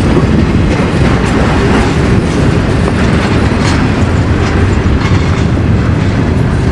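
Train passing close by: a loud, steady rumble of railcars rolling on the rails, with scattered clicks of wheels over the track.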